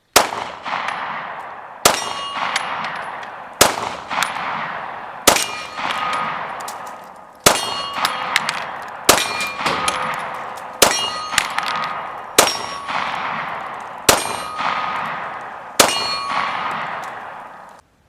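FMK 9C1 9mm pistol firing ten shots at a steady pace, about one every second and a half or so, each shot followed by a long ringing echo.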